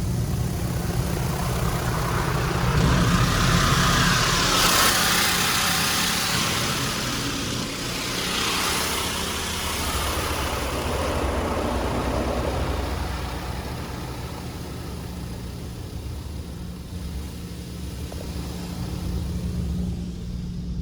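Mark VII AquaJet XT touchless car wash gantry sweeping its high-pressure jets over the car, heard from inside the cabin as a hissing wash of water that swells and fades twice. Under it the car's engine idles with a steady low hum.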